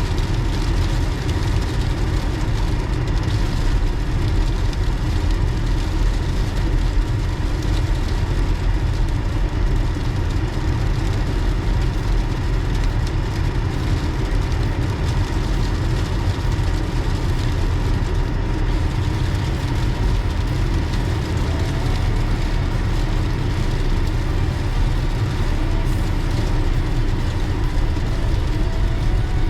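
Steady rumble of a car being driven: road and engine noise with a constant hiss, unchanging throughout.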